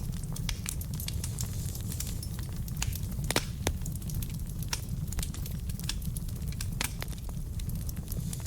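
Wood fire burning in a fireplace: a steady low rumble of flames under frequent sharp crackles and pops from the logs, one louder pop about three seconds in.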